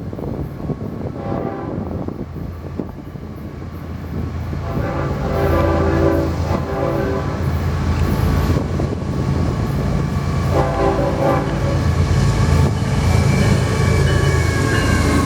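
Florida East Coast Railway train passing, its diesel locomotives rumbling and growing louder about four seconds in. The locomotive air horn blows a chord faintly early on, then a long blast about five seconds in and a shorter one near eleven seconds.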